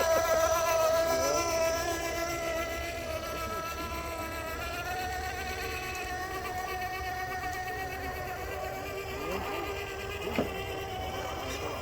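Electric motor and gearbox of a Traxxas RC crawler truck running, giving a steady high-pitched whine that drifts slightly in pitch as the throttle changes.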